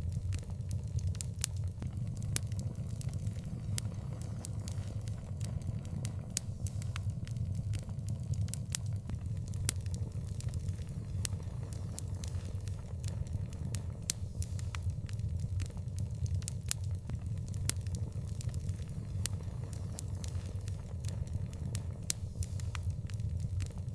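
Wood fire burning, with frequent sharp irregular crackles and pops over a steady low rumble of the flames.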